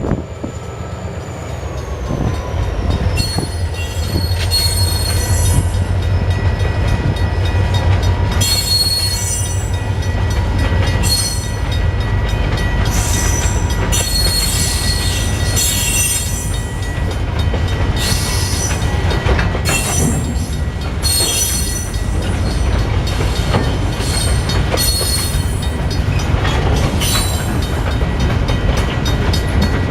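Freight train rolling slowly past at low branch-line speed: a steady low rumble from the cars, with high-pitched wheel squeal coming and going every second or two.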